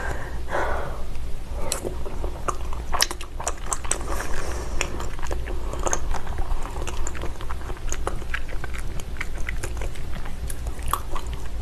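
Close-miked chewing of thick-cut raw salmon sashimi, with many short mouth clicks and smacks over a low steady hum.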